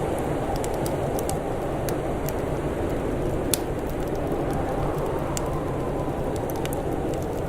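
Wood fire crackling with scattered sharp pops, the loudest about three and a half seconds in, over a steady low rush of blizzard wind with a faint rising and falling whistle.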